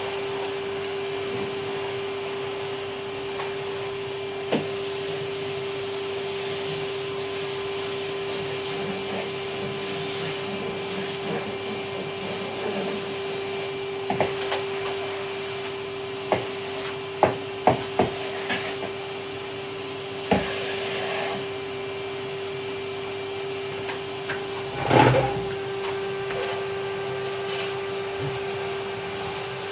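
Vacuum cleaner running steadily, its motor giving a constant hum with a fixed whine. Sharp knocks come now and then, a quick cluster about halfway through and a louder thud near the end.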